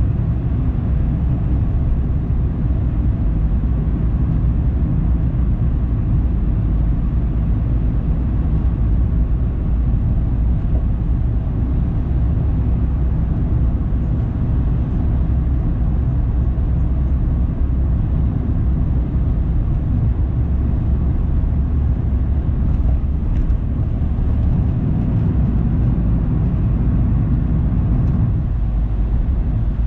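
A car driving: a steady low rumble of engine and tyre noise.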